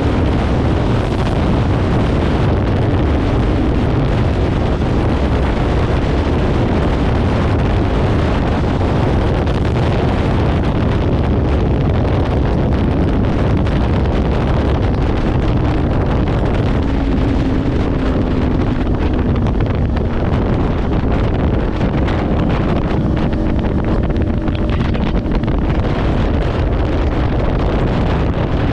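Kawasaki Ninja 500's parallel-twin engine running through a Leo Vince aftermarket exhaust while riding at a fairly steady pace, with heavy wind noise on the microphone.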